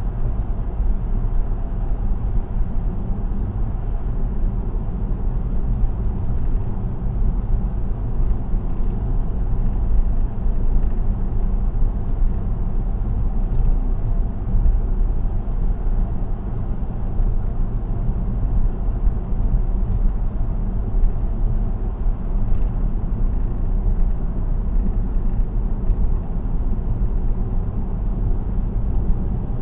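Steady road noise of a car cruising on an expressway: a continuous low rumble of tyres and engine, with faint small ticks scattered through it.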